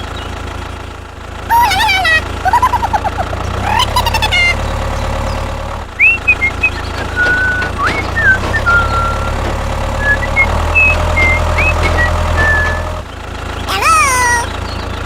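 A steady low engine hum, as of a tractor idling, with short whistled chirps and squeaky rising and falling glides over it at several points.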